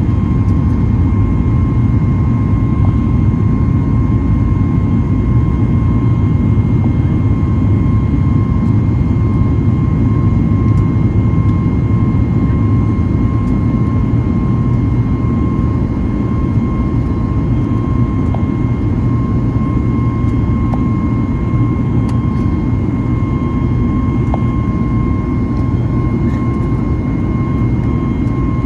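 Boeing 737 MAX 8's CFM LEAP-1B turbofans running steadily, heard from inside the passenger cabin as a dense low roar with a steady whine near 1 kHz above it.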